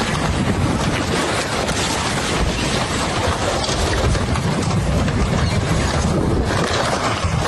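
Floodwater rushing, a loud steady noise that holds evenly throughout.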